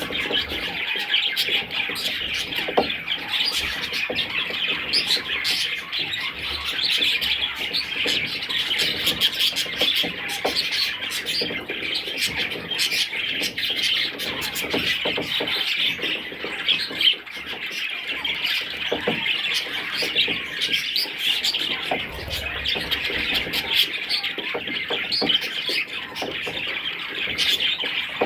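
Budgerigars chattering continuously: a dense mass of overlapping chirps and squawks with no pause.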